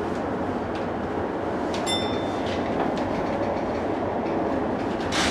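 JR E233-series electric train running slowly, heard from the driver's cab: a steady rumble of wheels on rail with a few short clicks. A single short chime rings about two seconds in.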